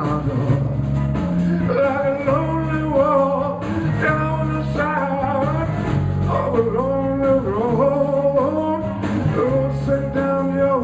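Live blues band playing an instrumental passage between verses: a lead line of bending, sustained notes over bass and a steady drum beat with cymbals.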